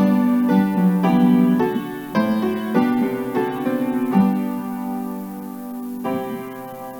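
Piano offertory music played while the offering is collected: a slow succession of struck chords, changing every half second to a second, then a longer chord that is held and slowly fades.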